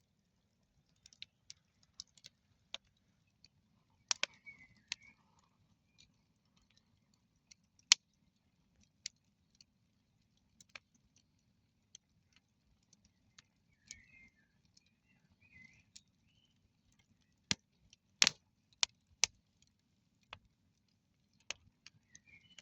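Wood campfire crackling: irregular sharp pops and snaps of burning wood, with one loud pop about eight seconds in and a run of louder snaps later on.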